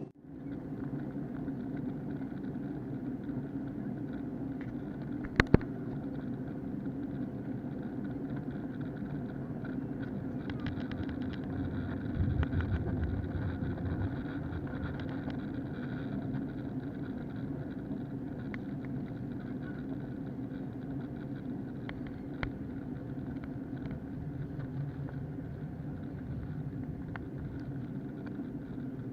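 Steady drone inside the cabin of an Airbus A321 airliner, the low rumble of its IAE V2500 engines and airflow, with a sharp click about five seconds in.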